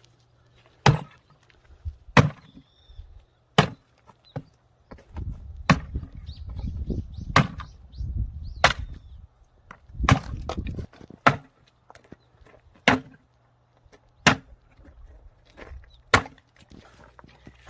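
Anti-vibration axe splitting firewood: about eleven sharp chops into the wood, one every second and a half or so.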